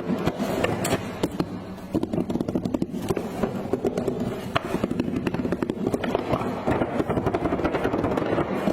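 Toy truck's plastic parts clicking and rattling in quick, irregular succession over a steady low rumble.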